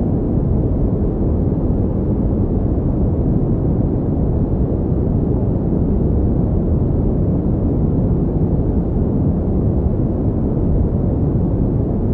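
Steady pink noise: an even, unchanging rushing hiss weighted toward the low pitches, with no rhythm or events in it.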